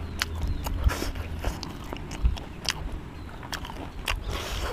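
A person chewing food close to the microphone: a quick run of sharp, wet mouth clicks over a low steady rumble.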